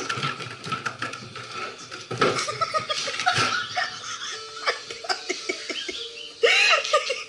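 People laughing, with music playing.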